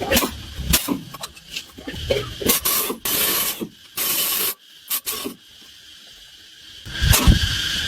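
Hand work on rusted moped parts during teardown: metal scraping and rasping with sharp clicks, two short hissing bursts in the middle, and a heavy knock near the end.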